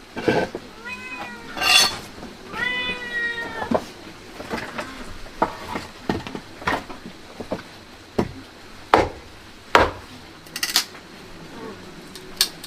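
An animal calling twice, the second call drawn out for about a second, followed by scattered sharp knocks and clatter.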